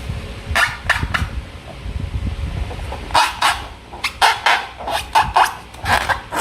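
Slime squished and worked by hand: a run of short wet squelches, three spaced out in the first half, then coming quickly one after another from about halfway.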